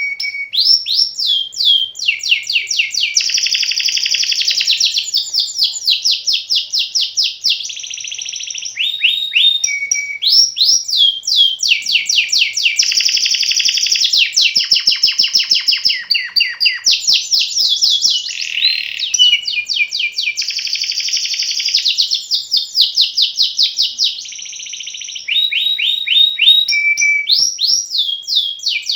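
Canary singing a long rolling song: phrases of fast, rapidly repeated notes and trills that run one into the next with only brief breaks.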